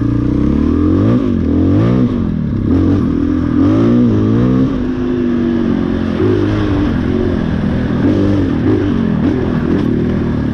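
KTM 500 EXC dirt bike's single-cylinder four-stroke engine under way on a trail, revving up and down several times in the first half, then running more evenly with smaller throttle changes.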